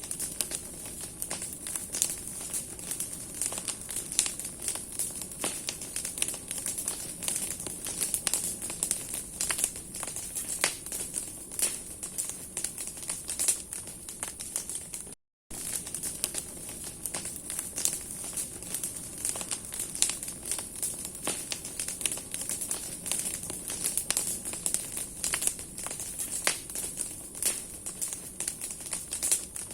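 Bonfire of burning tree branches crackling and snapping: dense, irregular pops and cracks over a steady hiss. The sound cuts out briefly about halfway through.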